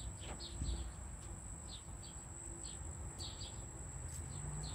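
Faint chirping of small birds: short high chirps coming irregularly, several a second, over a steady thin high-pitched whine.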